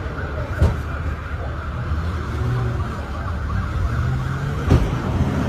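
A large SUV's engine running in a low, steady rumble as it pulls up, with two sharp knocks, one shortly after the start and one near the end.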